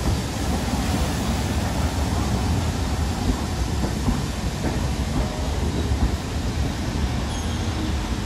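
Railway passenger coaches rolling past close by: a steady, loud rumble of steel wheels on the rails.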